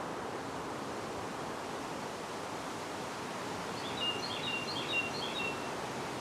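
Steady wind noise. About four seconds in, a songbird sings one short phrase of quick repeated high chirps lasting under two seconds.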